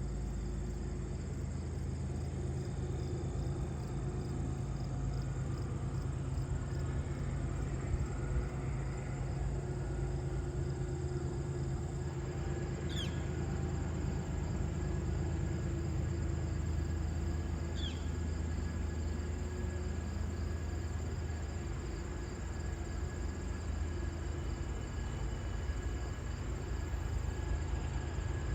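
Diesel locomotives of a freight train running steadily in the distance, a continuous low rumble with a steady hum. Two short, high, falling chirps cut through it twice.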